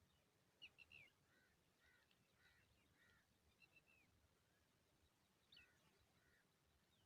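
Faint, high chirps of small birds: a quick cluster of falling chirps about a second in, then a row of short arched call notes about twice a second, with a few more chirps later.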